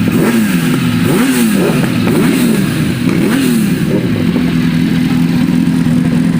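Superbike engine revved in quick blips about once a second through its exhaust, then settling to a steady run from about four seconds in.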